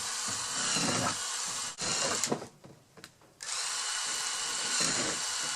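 Power drill with a 3/16-inch bit drilling air holes through the wall of a garbage can: two runs of drilling with a pause of about a second in the middle.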